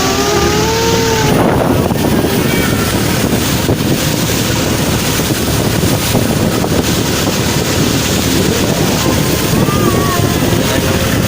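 Motorboat engine running steadily while the boat moves along a canal, with wind buffeting the microphone.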